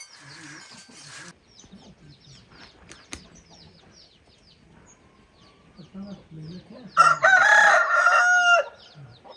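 A rooster crows once, loud, for nearly two seconds near the end, its call holding steady and dropping off at the close. Faint short chirps sound throughout.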